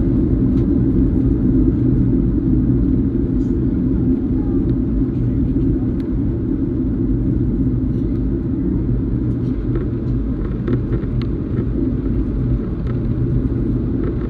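Boeing 737 cabin noise: the steady drone of the jet engines and airflow heard from inside the passenger cabin, deep and unchanging, with a few faint clicks.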